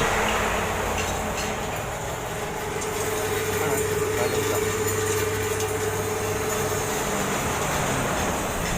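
Poultry meat-cutting machine running steadily: a continuous mechanical hum with a steady whine, strongest in the middle, and a few faint ticks.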